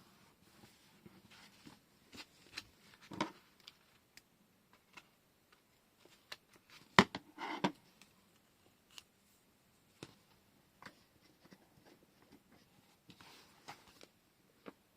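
Desk crafting handling noises: light taps, rustles and small clicks of washi tape rolls and paper being handled, with one sharp click and a short rustle about seven seconds in.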